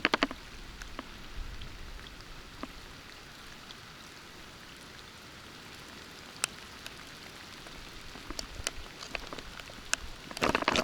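Steady rain falling, with scattered sharp drops striking close by, one of them loud about six and a half seconds in, and a brief cluster of louder hits near the end.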